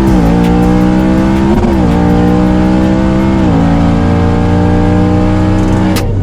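Twin-turbo Ford Mustang's 5.0 Coyote V8 at full throttle on a drag-strip pass, the engine note dropping at upshifts about one and a half and three and a half seconds in. The engine sound cuts off just before the end.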